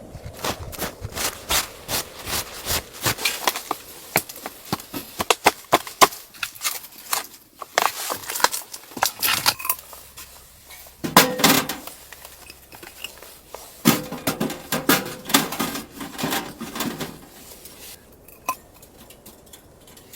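Cookware and utensils clattering: a run of sharp knocks, several a second, then two louder bursts of clatter with a ringing tone about eleven and fourteen seconds in.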